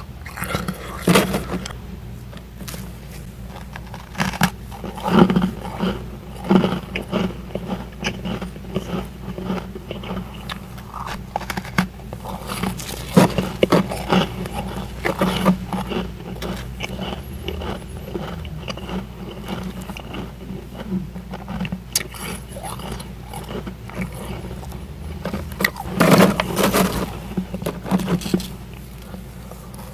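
Powdery freezer frost (humidifier frost) being bitten and chewed close to the microphone: an irregular run of crunches, with louder bursts of crunching about a second in, around five seconds in, midway, and near the end. A steady low hum runs underneath.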